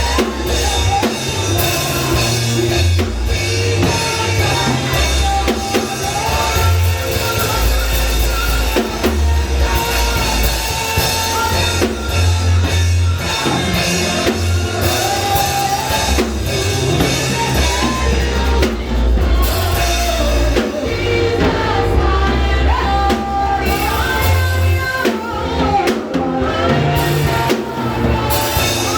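Church worship music: a band with drum kit and bass guitar playing under singing voices.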